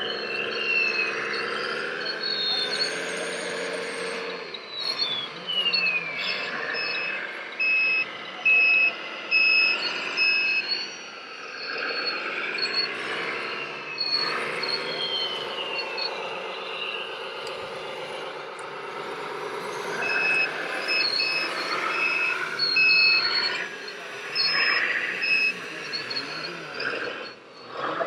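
Reversing beeper on a radio-controlled model truck, sounding in two runs of evenly spaced high beeps, a few seconds each, over the continuous running and whining of the model machines' motors. Two falling whines come through, a few seconds in and about halfway.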